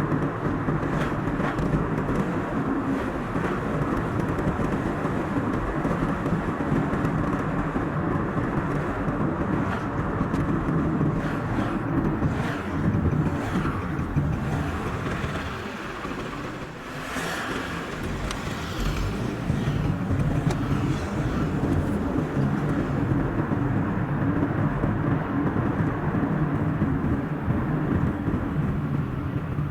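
Steady engine and tyre noise of a car driving on a road, sped up to double speed, with a few brief whooshes of passing traffic. There is a short lull about sixteen seconds in.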